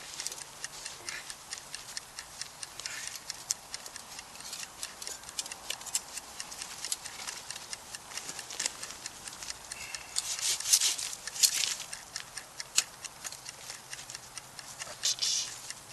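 Wood campfire crackling with irregular sharp pops, with louder hissing crackles about ten to twelve seconds in and again near the end.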